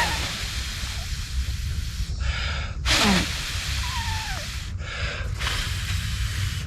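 A person blowing in short breathy bursts onto a newly lit fire of birch bark and tinder to get it going, the strongest blow about three seconds in, over a steady low rumble.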